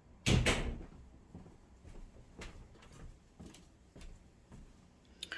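A small hammer knocks once on a sewing machine's cam mechanism, then faint light clicks follow as the metal parts are handled.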